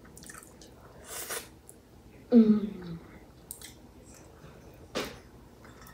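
A person chewing food with mouth noises, a short falling hum about two and a half seconds in, and two short breathy noises, one about a second in and a sharper one near the end.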